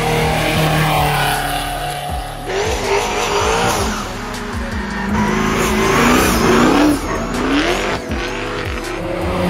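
Car engine accelerating hard up a hill-climb course, its note rising and falling with the revs, with tyre squeal.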